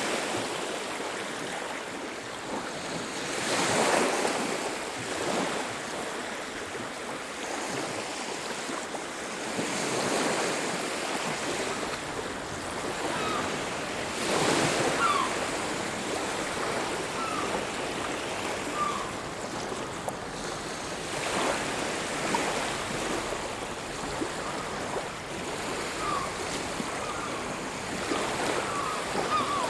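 Sea waves breaking and washing on a beach, swelling about every six seconds. Short high bird calls chirp in the second half.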